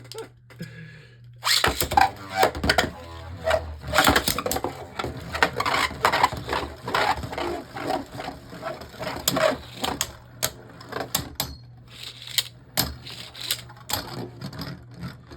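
Beyblade Burst spinning tops clashing and rattling against each other and a plastic stadium: a dense run of sharp plastic clicks and knocks starting about a second and a half in and thinning near the end.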